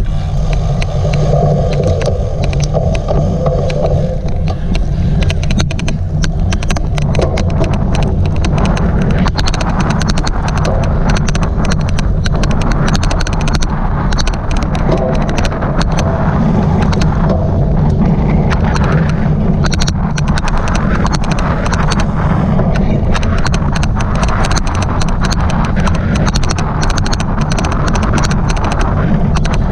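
Cyclocross bike being ridden over a race course, with heavy wind and rumble on the mic. Through it runs an odd, irregular clicking noise, many clicks all the way through.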